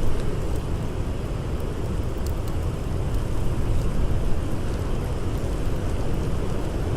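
Blizzard wind blowing steadily with a deep rumble, and a few faint campfire crackles over it.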